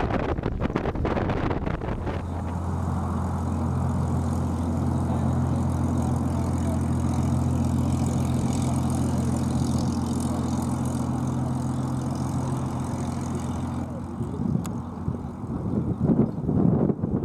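Engine running at a steady speed with an even low hum, with wind buffeting the microphone at the start and again near the end.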